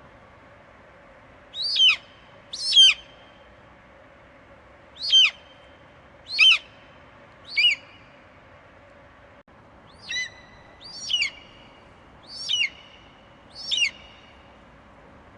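Eagle screeching: nine short, shrill calls, each sliding down in pitch. Five come in the first eight seconds, then there is a pause and four more follow, over a faint steady hum.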